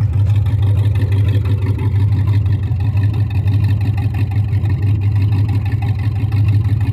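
Chevy Silverado's 4.8-litre Vortec V8 idling steadily through open headers, a loud, deep, even exhaust note with no revs. The engine is still cold, just after a cold start.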